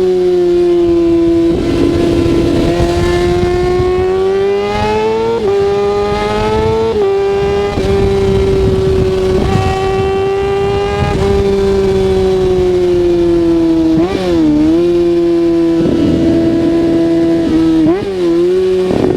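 Kawasaki ZX-6R 636's inline four-cylinder engine running under a rider's changing throttle, its pitch climbing slowly, stepping and easing off, with two short dips and sharp recoveries near the end.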